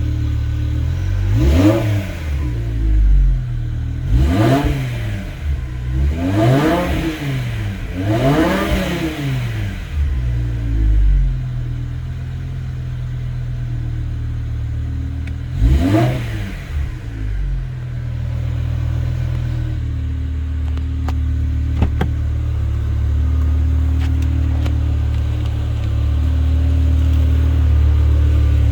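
BMW E60 M5's V10 engine through a Corsa aftermarket exhaust, warm, free-revving: four quick throttle blips close together, another about sixteen seconds in, each rising and dropping back fast, then a steady idle to the end.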